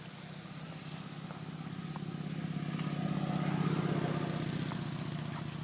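A motor vehicle's engine passing by: a low steady hum that grows louder to a peak midway, then fades away.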